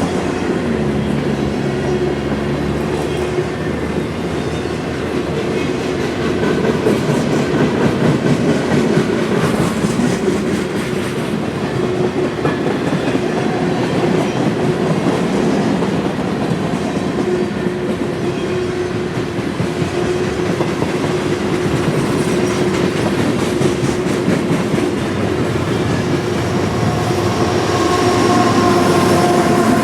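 Freight train cars rolling past on the rails, a steady rumble with wheel clatter and a steady hum underneath; a few higher ringing tones join in near the end.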